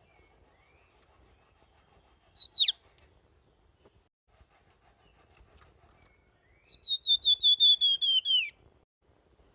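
A flamboyan songbird singing in a clear, fluting whistle: a short call with a quick downward sweep, then a run of about a dozen rapid whistled notes, about seven a second, sliding slowly lower in pitch.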